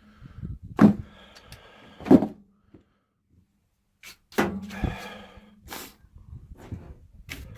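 Several sharp knocks and clunks, with a faint steady low hum under them. The sound cuts out completely for over a second midway.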